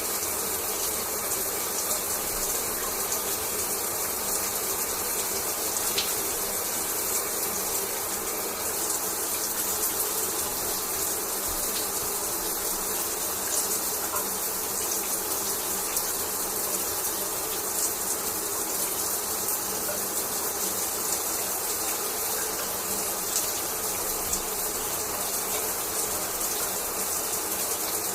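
Shower water spraying and falling in a steady stream, with small irregular splashes.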